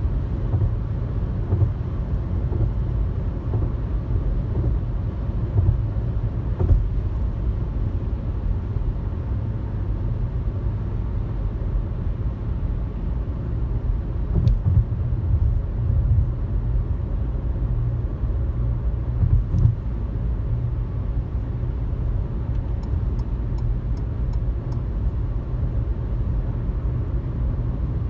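Car driving at highway speed: a steady low rumble of road and engine noise, with a few brief thumps from bumps in the road and a short run of faint ticks near the end.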